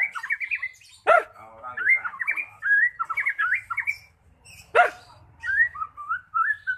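White-rumped shama (murai batu) singing a fast run of short warbled and whistled notes. The song is broken twice by a harsh squawk, about a second in and again near five seconds in.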